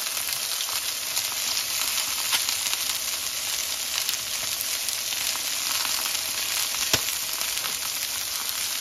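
Boiled chicken leg quarters and sliced onions frying in oil in a nonstick frying pan: a steady sizzle with many small crackles, and one louder pop about seven seconds in.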